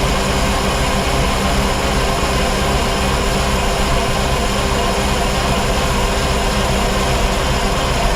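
Chevy C90's Detroit Diesel two-stroke engine being cranked over on the starter with the fuel rack held at no fuel, turning over steadily without firing, to check that no injector plunger sticks. The cranking stops abruptly near the end.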